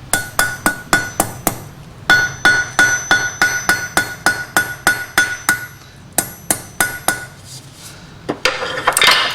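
Light hammer taps on the end of a small metal rod, about three to four a second in runs with short pauses, each tap with a brief metallic ring. The taps are straightening out an enlarged rod end. A louder burst of noise comes near the end.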